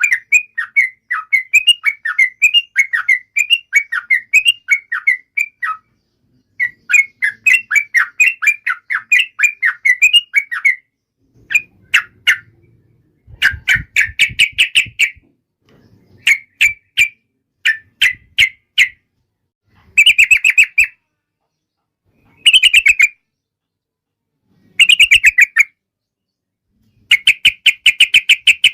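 Yellow-vented bulbul (trucukan) singing: a loud, bubbling chatter of quick notes for the first ten seconds or so, then short bursts and separate notes with brief silent gaps, and a fast even run of repeated notes near the end.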